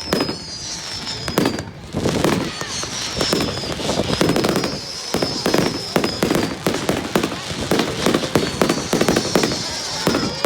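Fireworks display: a continuous barrage of rapid bangs and crackling, with several high whistles that fall slightly in pitch as they trail off.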